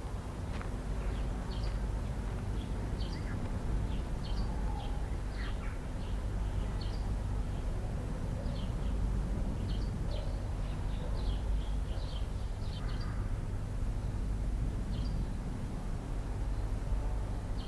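Small birds chirping: short, scattered high calls coming every second or so, over a steady low hum.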